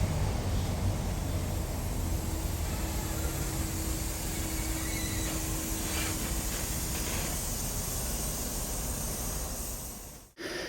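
A vehicle running steadily, a constant rumble and hiss with a faint held tone in the middle, fading out near the end.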